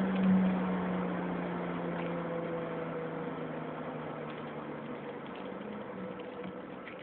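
1985 BMW E30 320i's inline-six running through a home-made stainless steel exhaust: a steady drone, loudest about a quarter second in, then slowly fading.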